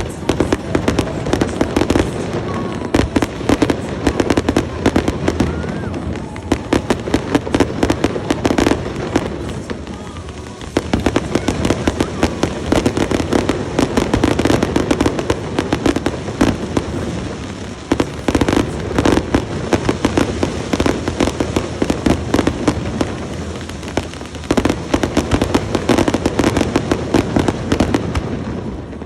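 Fireworks display: a dense, continuous run of bangs and crackles, easing briefly about ten seconds in and tapering off near the end.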